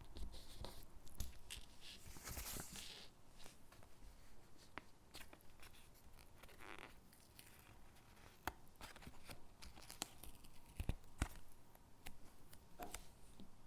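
Faint close-up handling of stickers and paper cutouts: stickers peeled off their backing and pressed down, heard as scattered light taps and clicks with a couple of longer peeling rasps.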